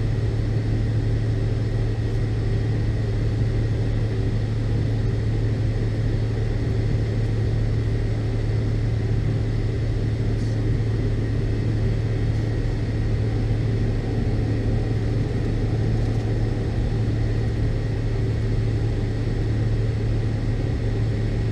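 Cabin drone of a McDonnell Douglas MD-82 airliner's rear-mounted Pratt & Whitney JT8D turbofans, heard from a window seat inside the cabin: a steady, deep hum with a faint high whine, unchanging throughout.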